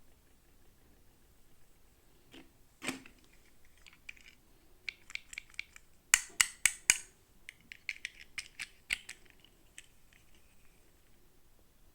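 Hands handling small plastic toy packaging: scattered clicks, taps and crinkles, loudest in a run of four sharp clicks in the middle.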